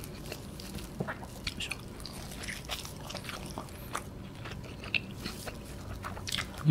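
A person chewing a soft, cheesy pizza slice with the mouth, giving many small wet clicks and smacks at an uneven pace. At the very end comes a short, loud vocal sound that falls in pitch.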